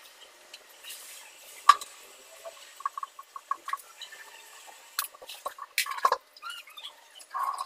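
Scattered light clicks and taps of small metal engine parts and hand tools being handled, with one sharp click about two seconds in.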